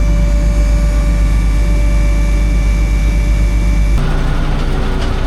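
A heavy engine running steadily, with a strong low hum and a thin steady whine above it. About four seconds in, the sound changes abruptly to a lighter engine noise.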